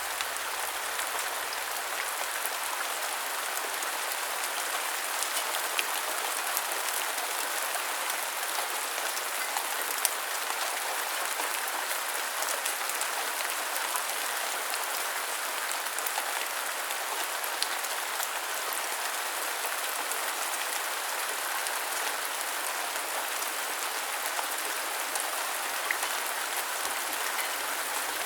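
Steady rain: a dense, even hiss of rainfall with scattered single drops ticking sharper above it.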